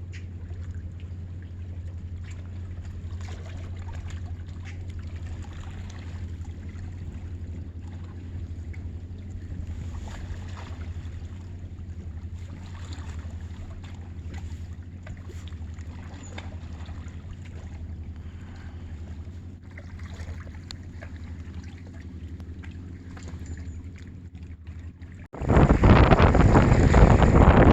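Outdoor seaside ambience with a steady low hum, then about 25 seconds in a sudden loud rush of wind buffeting the phone's microphone.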